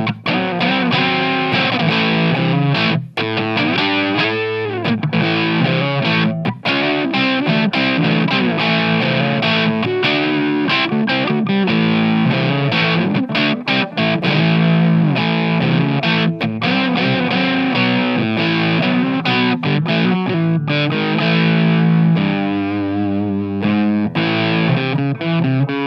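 Electric guitar played through an MXR MC402 Boost/Overdrive pedal, giving a distorted, overdriven tone. It plays continuous riffs and chords with brief stops between phrases.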